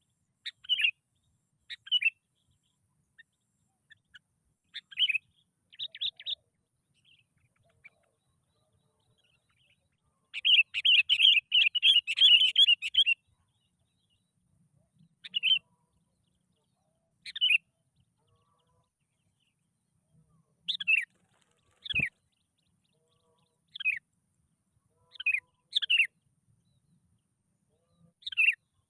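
Sooty-headed bulbul calls: short, clear notes sliding downward, repeated every second or two, with a fast chattering run of notes a third of the way in.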